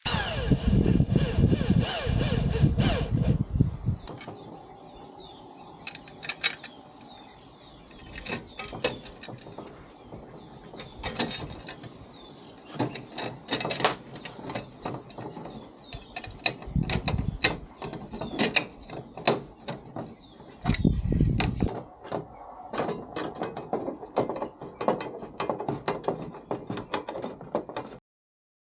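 Hand-tool work on metal parts: a long series of sharp clicks and knocks, with a few louder low bursts near the start, about two-thirds of the way through and shortly after.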